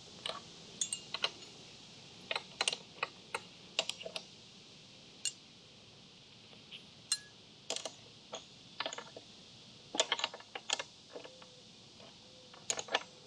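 Hand wrench clicking and clinking against a nut in short, irregular bursts of a few clicks each as it is worked back and forth.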